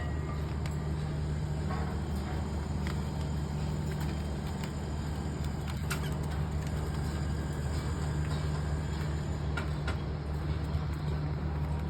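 A steady low machine hum with a few faint short clicks.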